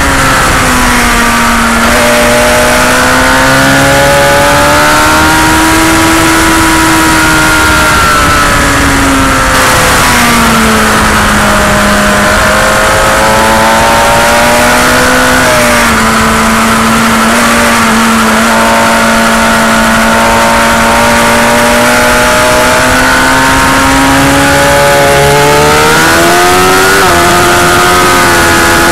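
Motorcycle engine heard from on board at racing speed, its pitch rising and falling as the rider works the throttle and gears through corners, over steady wind rush. The pitch drops sharply around ten seconds in and again near the end, and holds fairly level through the middle.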